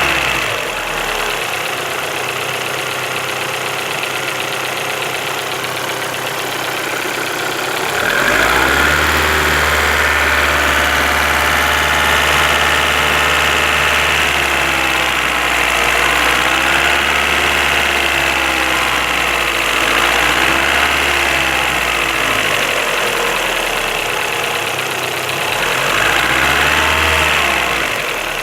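Car engine running, first at idle, then held at raised revs from about eight seconds in until about twenty-two seconds, with the engine speed wavering, and briefly raised again near the end. The engine has a knock that is being tracked down.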